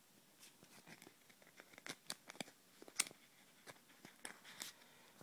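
Faint clicks and crinkling from a small multi-tool being handled, with a sharper click about three seconds in.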